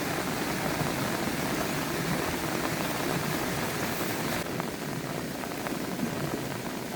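Heavy rain falling as a steady, even hiss. A little over four seconds in, the hiss thins and single drops can be heard ticking.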